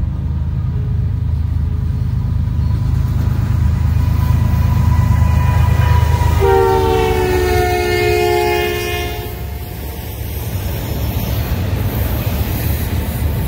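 GE ES44DC and EMD SD70M-2 diesel locomotives rumbling as they approach, with the lead unit's horn sounding one chord for about three seconds about halfway through, its pitch dropping slightly as it passes. After that come the steady rumble and rolling noise of double-stack container well cars going by.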